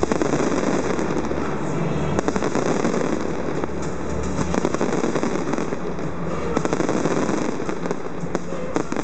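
An aerial fireworks display going off, a dense run of many rapid pops and crackles from showers of bursting stars.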